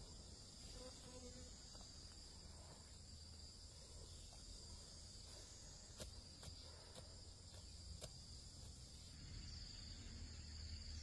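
Faint, steady high-pitched insect chirring, with a few soft clicks over a low rumble.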